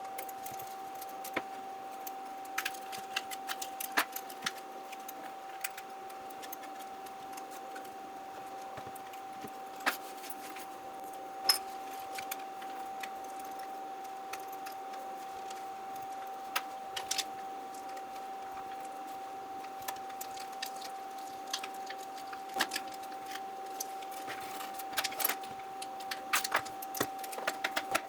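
Scattered small clicks and taps of tools and parts being handled while a Galaxy phone is taken apart, with a few clusters of quick clicks, over a steady faint mid-pitched tone.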